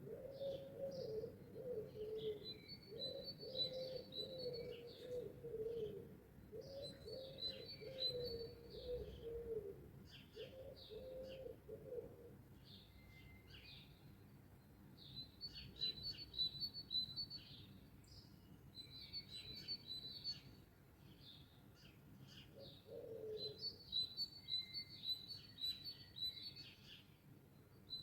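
Songbirds singing, with high chirping phrases coming in bouts every few seconds, while a dove coos in a repeated low phrase about four times during the first twelve seconds and once more later.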